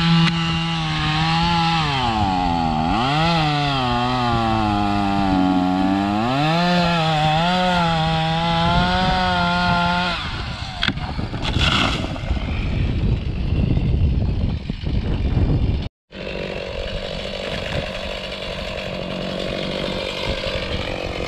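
Gas chainsaw cutting through a dead pine trunk, its engine note dropping and recovering several times as the chain bogs under load. About ten seconds in the steady note gives way to a rougher, noisier sound. After a short break the saw runs on with a quieter, steadier note.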